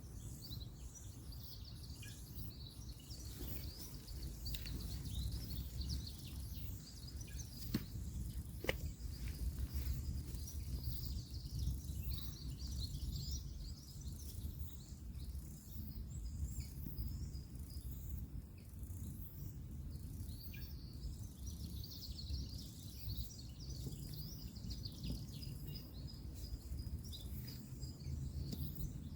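Woodland ambience: steady high chirping of birds and insects over a low rumble of distant road traffic, with two sharp clicks about eight seconds in.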